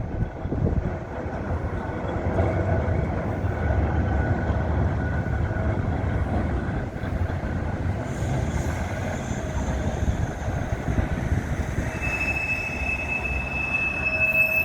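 Blackpool tram running on street track with a steady low rumble. Near the end its wheels start squealing on a curve, a high steady tone.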